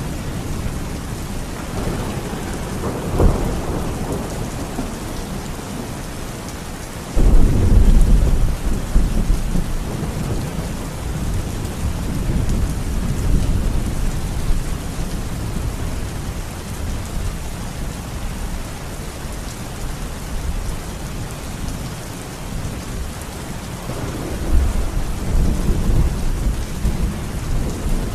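Heavy rain falling steadily through a thunderstorm. There is a rumble of thunder with a sharp crack about three seconds in, then a loud, sudden thunderclap about seven seconds in that rolls on for several seconds. Another rolling rumble comes near the end.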